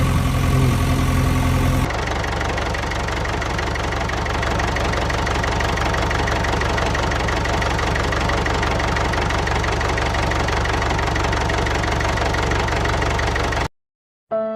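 An engine running steadily with a rapid, even pulsing. The sound changes abruptly about two seconds in and cuts off near the end.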